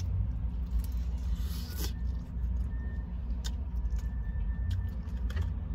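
Low steady rumble inside a parked car's cabin, typical of the engine idling, with a few soft crunches and clicks as crispy fried chicken is torn and bitten.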